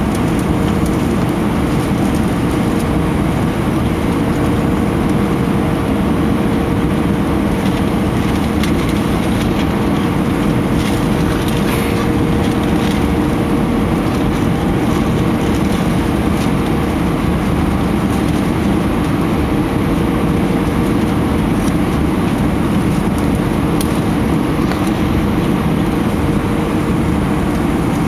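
Steady engine and airflow noise inside the cabin of an Airbus A319, heard from a window seat, with a steady hum running through it.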